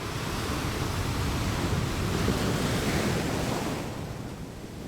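Ocean surf breaking and washing up the beach, swelling to a peak midway and easing off near the end, with wind rumbling on the microphone.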